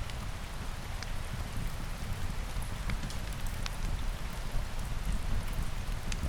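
Steady rain with a deep low rumble and a high hiss. A few sharp crackles stand out, about one every second or two.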